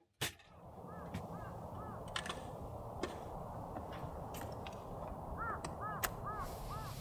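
A bird calling in two runs of short repeated notes, a couple about a second in and several more near the end, over a steady rushing noise.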